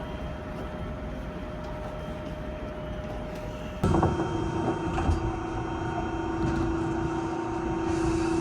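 Electric tram running, a steady rumble with a faint held tone; about four seconds in it suddenly gets louder and a strong steady hum comes in.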